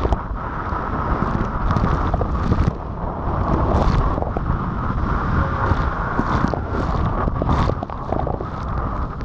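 Jet ski running at speed, its engine and rushing water under heavy wind buffeting on the microphone.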